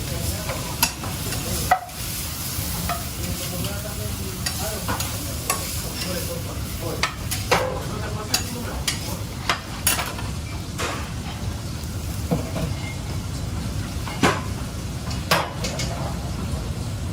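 Food sizzling in a hot pan as it is stirred, with a utensil clicking against the pan now and then.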